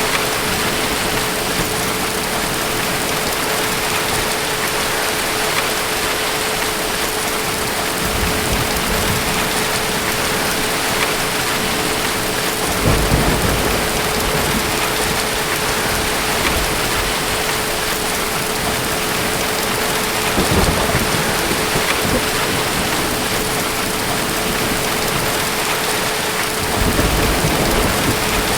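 Steady heavy rain falling, with distant thunder rumbling low four times, the strongest roll about halfway through.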